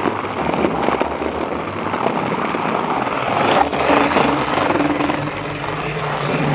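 Battery-powered Trackmaster toy train motors and gearboxes buzzing as the engines run along plastic track, with a steady regular pulsing.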